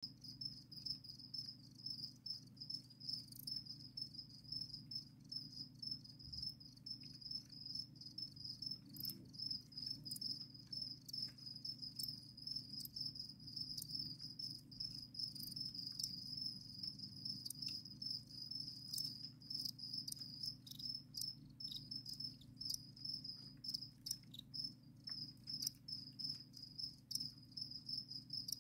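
Crickets chirping steadily, a continuous high pulsing trill that never stops, with faint scattered ticks over it.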